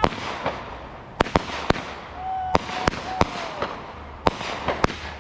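Fireworks going off: about nine sharp bangs in five seconds, with crackling in between and a brief whistle in the middle.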